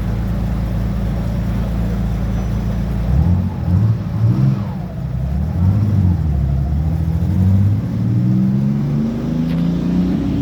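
An old car's engine runs at a steady pitch. About three seconds in, its pitch starts rising and falling repeatedly, then climbs near the end as it revs and accelerates.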